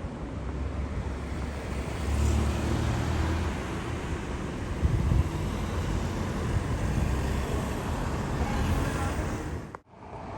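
Road traffic: engine and tyre noise of vehicles passing, louder about two to three and a half seconds in and again around five seconds, then cutting out abruptly near the end.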